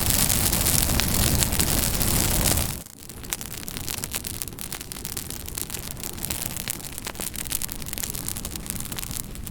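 Campfire burning, a steady hiss full of small crackles and pops. About three seconds in, the sound drops sharply and the fire carries on more quietly, still crackling.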